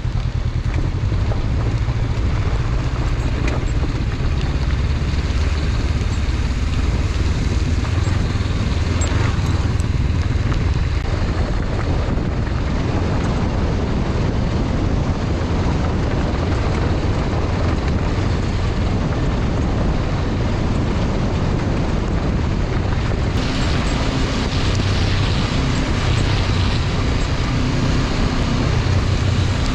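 Honda CB500X motorcycle's parallel-twin engine running steadily, with wind noise on the microphone.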